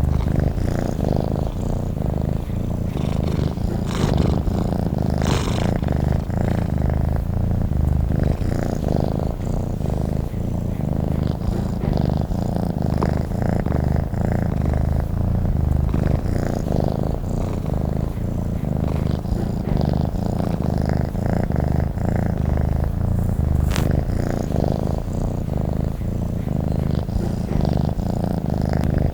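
Domestic cat purring close to the microphone, a steady low rumble that pulses with its breathing and runs on without a break.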